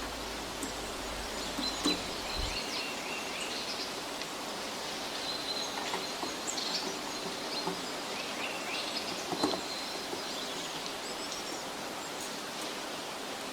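Forest ambience: a steady hiss with birds singing in short repeated chirps and trills. A few sharp knocks stand out, the loudest about two seconds in and again about nine seconds in.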